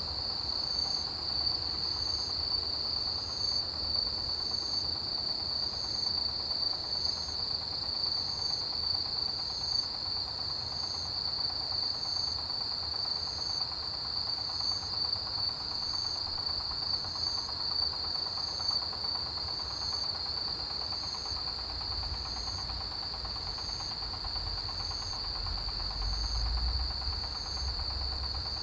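Chorus of autumn field insects, crickets among them: one steady high trill, a second insect chirping about once a second, and a faster, higher pulsing over both. A low rumble joins in the last few seconds.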